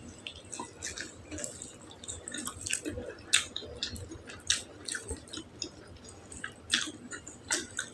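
A person chewing food close to the microphone, with wet mouth smacks and clicks at irregular intervals; the loudest come a little after three seconds in and near seven seconds.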